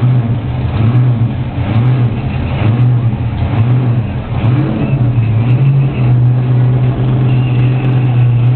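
A 1500-horsepower monster truck engine running, revving in repeated surges for about six seconds, then holding a steady note.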